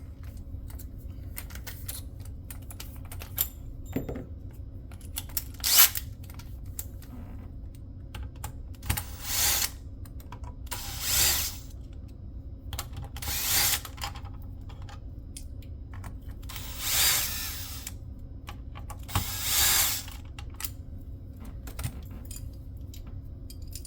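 Electric screwdriver running in five short bursts, backing out the screws of a motherboard's CPU cooler bracket. Before them come a few sharp clicks of parts being handled.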